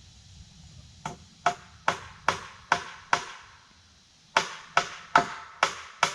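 Hammer driving nails into wooden framing: six steady blows at about two and a half a second, a short pause, then another run of blows at the same pace.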